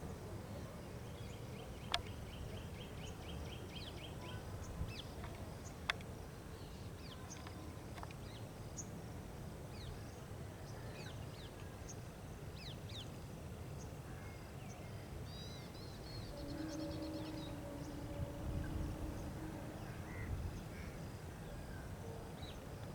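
Outdoor ambience of small birds chirping, with scattered short calls and a couple of brief rapid trills, over a low steady background rumble. A faint low droning tone runs for a few seconds past the middle.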